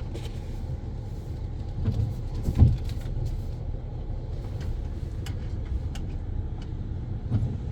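Pickup truck engine running at low speed as it reverses slowly, a steady low rumble, with a dull thump about two and a half seconds in.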